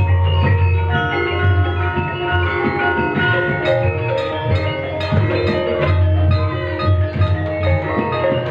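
Live Javanese gamelan music accompanying a jaranan dance: bronze metallophones ringing out overlapping struck notes over quick drum strokes and a deep, steady low tone.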